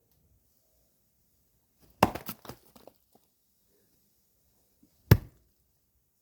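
Two axe strikes splitting firewood, about three seconds apart. The first is followed by a short clatter of smaller knocks as the wood gives way.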